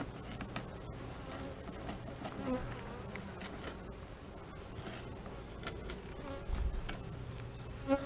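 Honey bees buzzing steadily over an opened hive, with a steady high-pitched insect trill in the background. A low thump comes about six and a half seconds in.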